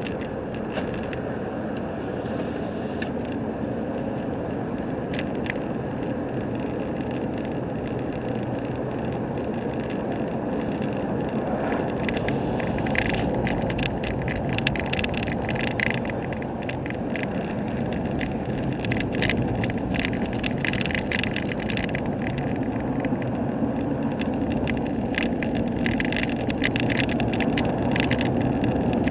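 Steady road and engine noise of a vehicle driving on the highway, heard from inside the cab. A patter of sharp ticks and crackles runs through much of the second half.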